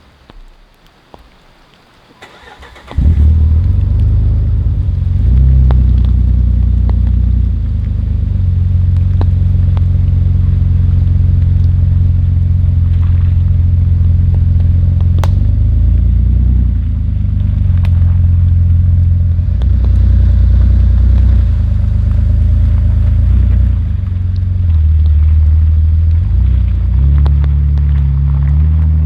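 A motor vehicle's engine comes in suddenly about three seconds in and keeps running loudly, a deep low rumble that shifts in pitch several times.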